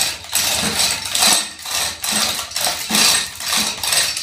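Hoist chain on an A-frame rattling and clinking in quick repeated pulls, about two to three a second, as the tractor's heavy cast-iron transmission case is lifted.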